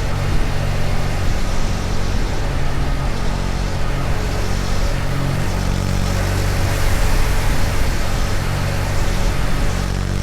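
KTM Duke 250's single-cylinder engine running steadily on the road, with wind and road noise over it.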